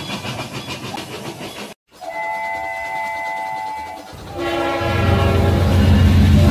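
Train sounds: a fast rhythmic chugging cuts off abruptly just under two seconds in. A steady horn of several held notes sounds for about two seconds, then a loud low drone swells in near the end.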